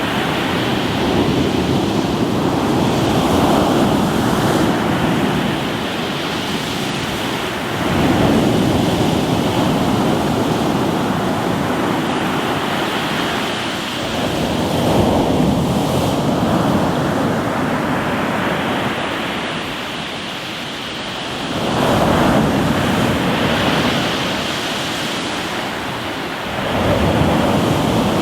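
Sea waves breaking and washing over a rocky shore, the surf swelling up and easing back about every six to eight seconds.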